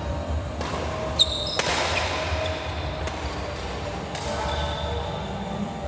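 Play on an indoor sports-hall court: a short high squeak about a second in, then a sharp hit just after, over the steady rumble of the hall.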